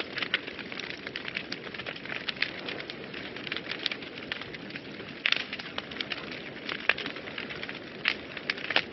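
Wood fire burning in a fireplace: a steady low hiss and rumble of flames with frequent irregular crackles and sharp pops, a few louder pops near the middle and end.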